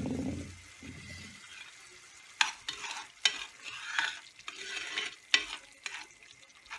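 A spoon stirring and scraping through tomato sauce cooking down in a pot, over a faint sizzle. There are several separate scrapes, starting about two and a half seconds in.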